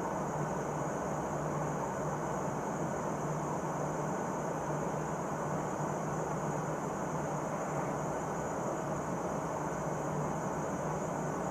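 Steady cabin drone of a P-8A Poseidon patrol aircraft in flight: constant engine and airflow noise with a low hum and a high hiss, unchanging throughout.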